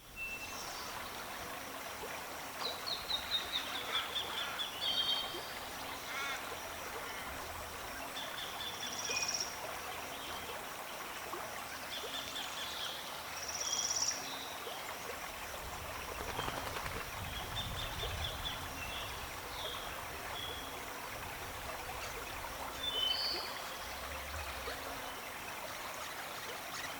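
Small birds chirping in quick runs of high repeated notes, again and again, over a steady wash of background noise like running water.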